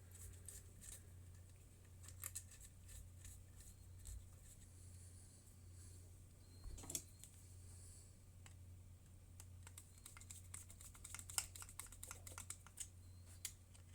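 Faint scattered clicks and light taps of small carburettor parts being handled and fitted by hand during a Dell'Orto PHM40 carburettor reassembly. The clicks cluster more thickly near the end, over a steady low hum.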